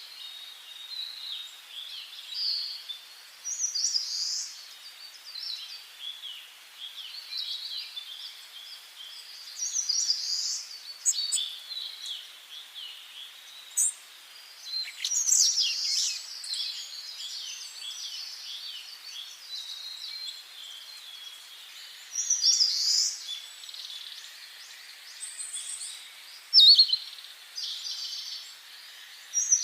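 Songbirds singing in a forest, several different short, varied phrases overlapping and recurring, some louder bursts standing out.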